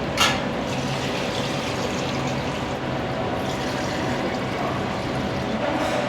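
Steady udon-shop kitchen noise: a continuous rush with a low steady hum, and one short clack just after the start.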